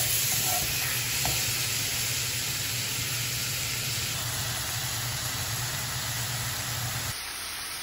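Chicken pieces sizzling in hot oil in a cast-iron skillet, with a spatula stirring them at first. The steady sizzle drops a little in level about seven seconds in.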